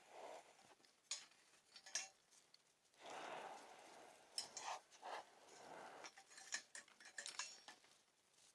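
Faint, scattered clinks and scrapes of metal cooking utensils against a small pan, with soft handling rustle between the clicks.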